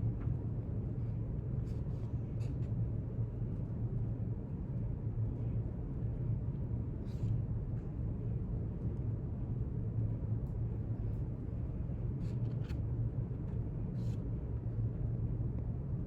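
Steady low hum of room ambience, with a few faint, short light ticks or rustles scattered through it.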